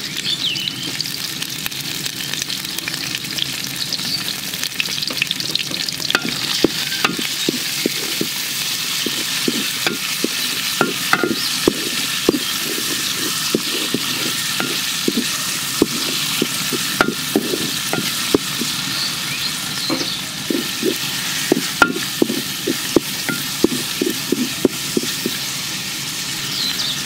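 Small shrimp and sliced onion sizzling in hot oil in a large metal pot. A wooden spatula stirs them, scraping and knocking against the pot many times from about six seconds in.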